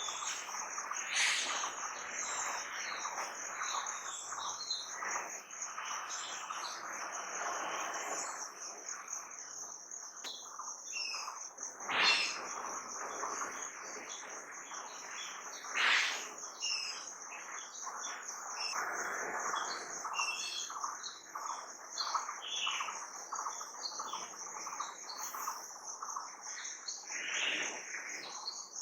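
Several birds chirping and calling over a steady, high-pitched pulsing trill of insects. A few louder bird calls stand out about a second in and twice around the middle.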